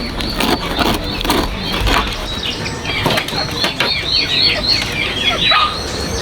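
Birds chirping in quick, downward-sweeping chirps, over a run of short rustling knocks.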